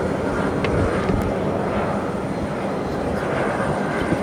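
Boeing jet airliner's engines running, a steady, even jet noise.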